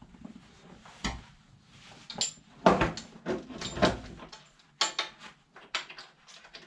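Steel snowplow wing being fitted onto the blade, its square-tube sleeve and pin going in: a series of irregular metal knocks and clanks, loudest near the middle.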